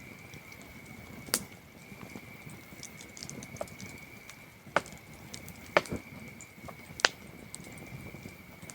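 Campfire burning with a soft, steady crackle and four sharp pops of burning wood, one about a second and a half in and three in the second half. Behind it, crickets chirr in a steady high trill.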